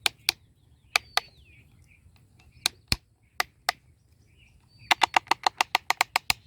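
Sharp plastic clicks from a toy excavator being handled, a few scattered at first, then a quick run of about eight clicks a second near the end. Birds chirp faintly in the background.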